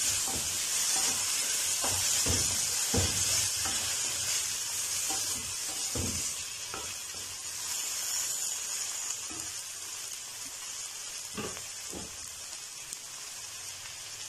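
Diced vegetables sizzling as they fry in oil in a metal kadai, stirred with a wooden spatula that scrapes and knocks against the pan every second or so. The sizzle is strongest at first and eases somewhat in the second half.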